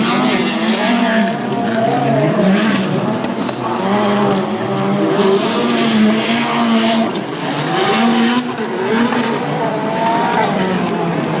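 Several rallycross race cars racing, their engines revving up and falling back through gear changes with overlapping pitches, along with tyre and surface noise.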